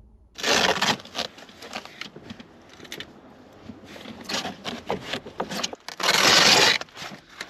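Rustling and scraping handling noises with scattered clicks: two longer, louder rustles, one about half a second in and one about six seconds in.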